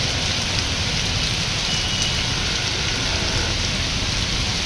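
Heavy rain pouring steadily onto a flooded street, a dense, even hiss with a low rumble beneath it.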